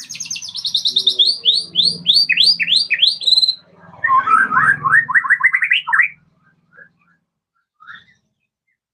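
White-rumped shama (murai batu medan) singing: a fast run of high, sharply sweeping notes for about three and a half seconds, then a lower, rapid run of repeated notes about four seconds in, a few scattered single notes, and it stops about a second before the end.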